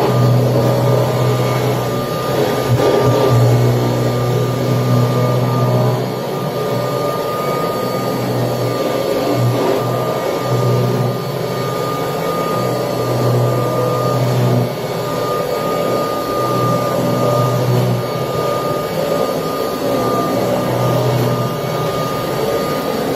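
A 1979 Kirby Tradition upright vacuum cleaner running steadily while vacuuming, with a constant high-pitched motor whine. A low hum swells and fades irregularly underneath it.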